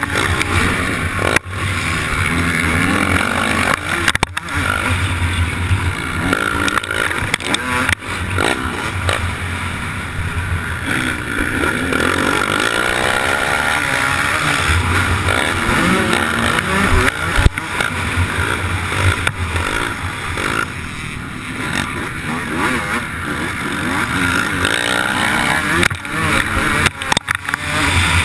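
MX1 motocross bike's engine revving up and down hard under racing, heard on board at close range, with several sharp knocks scattered through.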